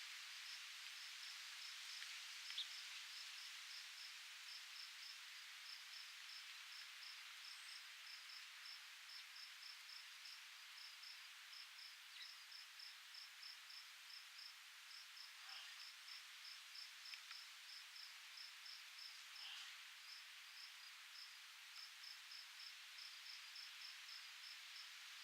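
Crickets chirping in a steady, even pulse of short chirps, a few a second, over a faint steady hiss of breeze.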